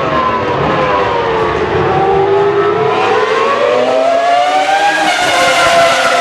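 Toro Rosso STR1 Formula One car's 3.0-litre Cosworth V10 running at high revs, its pitch falling over about the first two seconds, then climbing steadily for about three seconds before easing slightly near the end.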